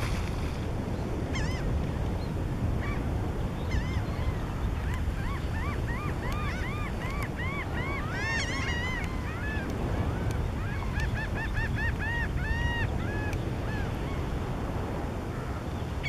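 A bird calling in a long series of short, arched, honking notes, sparse at first, then about two a second in the middle, stopping a few seconds before the end. Steady wind on the microphone underneath.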